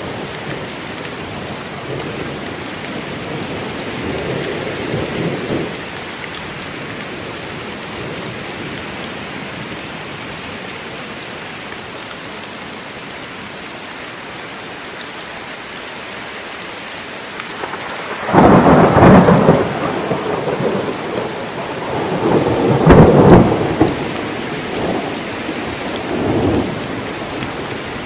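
Steady heavy rain falling in a forest, with a soft roll of thunder a few seconds in and loud thunderclaps rumbling through the last third, strongest about two thirds of the way through and again a few seconds later.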